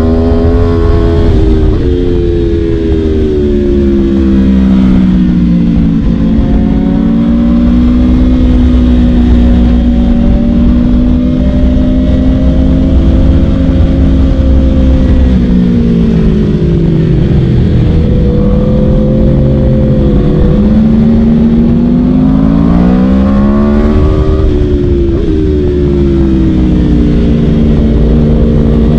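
Aprilia RSV4 V4 sport bike through an Akrapovic Shorty exhaust, riding on the road, its engine note rising and falling smoothly as the rider rolls the throttle on and off. The pitch dips for a few seconds in the middle and climbs again near the end.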